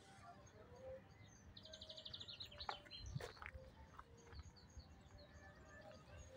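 Faint outdoor ambience with small birds chirping, including a fast trill of rapidly repeated high notes about two seconds in. A couple of sharp clicks sound around the middle.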